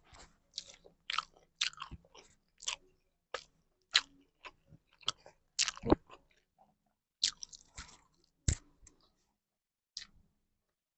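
Close-up chewing and wet mouth smacks of someone eating rice and fried egg, in short irregular clicks about one or two a second, the last about ten seconds in.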